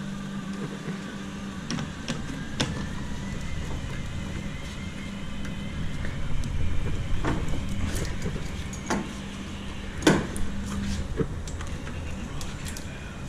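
A steady low hum with scattered sharp knocks and clicks, the loudest about ten seconds in.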